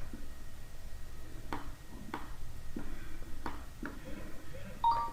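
Computer mouse clicking: a handful of sharp single clicks spaced irregularly, about half a second to a second apart, over a low steady hum.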